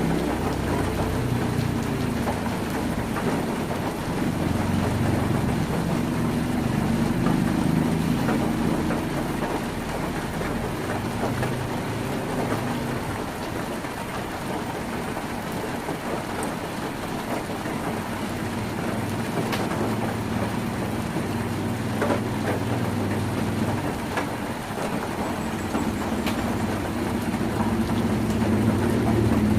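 Heavy rain on a tin roof: a steady dense patter with a few sharper drop hits. A low rumble sits underneath throughout.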